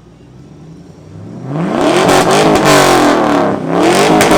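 2000 Chevrolet Camaro with an aftermarket exhaust, no cutout, revved hard in place. It idles low for about a second and a half, then the revs climb sharply to a loud peak, drop briefly around three and a half seconds in, and climb again.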